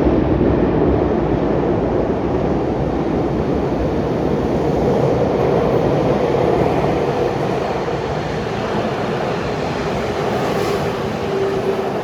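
Tokyu 4111F electric commuter train running: a steady loud rumble of wheels on rail, with a faint motor tone held through it.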